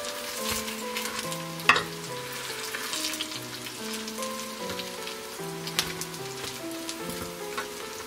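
Chinese-cabbage pancakes sizzling and crackling as they fry in oil in a round multi-well pan. A metal spatula clacks against the pan, loudest about two seconds in and again near six seconds. Soft background music with a simple stepping melody plays throughout.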